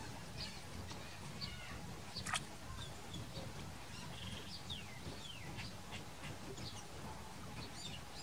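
Birds chirping: many short, high calls, some sliding down in pitch, over a steady low rumble. A sharp click comes about two seconds in.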